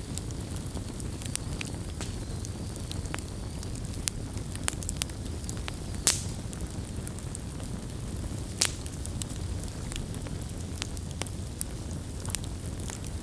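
Wood campfire burning: a steady low rumble of flame with scattered sharp crackles, and two louder pops about six and eight and a half seconds in.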